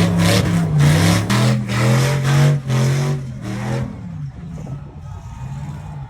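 Truck engine revving, its pitch rising and falling several times, then fading about four seconds in.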